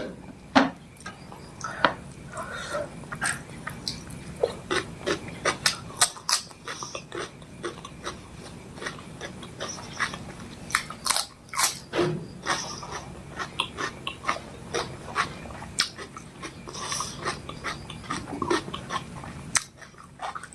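Close-miked chewing and eating mouth sounds of a person eating fish curry with rice: many short, sharp, irregular clicks and smacks.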